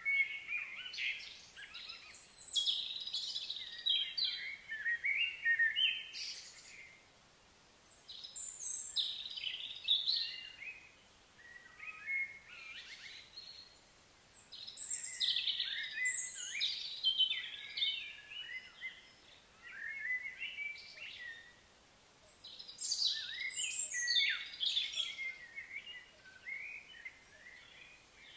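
Birds chirping and singing in bursts that each last a few seconds, with short pauses between them.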